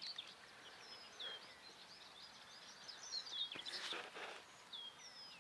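Faint birdsong from small birds: many short, high chirps and whistles, with a brief soft rustle a little past the middle.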